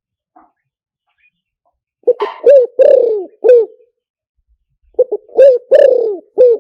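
Spotted dove cooing: two phrases of about four notes each, the longer note in each sliding down in pitch.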